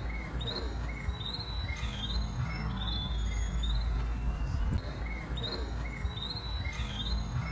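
Small birds chirping: short, high calls repeated at two pitches over a steady low rumble.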